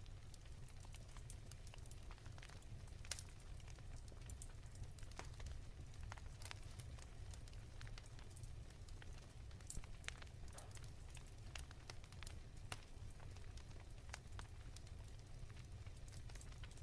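Wood fire crackling softly in a fireplace: scattered small pops and snaps over a low rumble, with one sharper pop about three seconds in.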